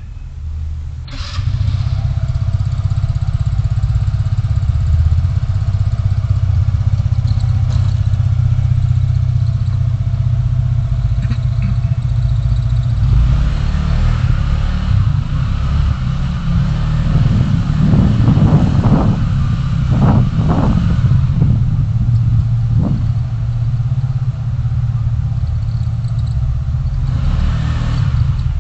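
Car on the move: a steady low engine and road rumble that gets louder about a second in, with a rougher, louder stretch about two-thirds of the way through.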